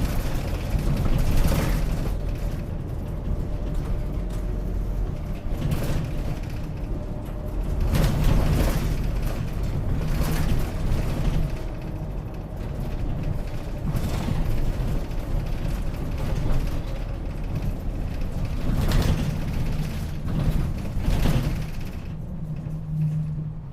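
Route bus running between stops, heard from inside the cabin: a steady engine and road rumble with sharp knocks and rattles every few seconds.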